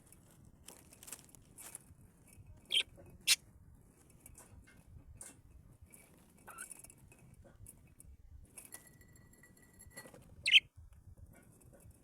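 Cage birds giving short, sharp calls, a couple about three seconds in and one near the end. A steady whistled note is held for about a second just before the last call, with faint ticks and rustles between.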